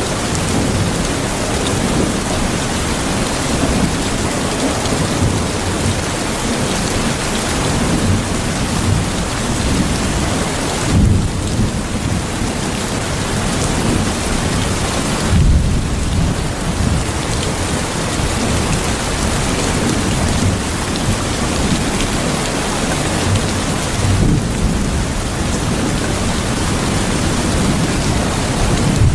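Steady heavy rain heard from inside an old house, with a low rumble underneath that swells a few times.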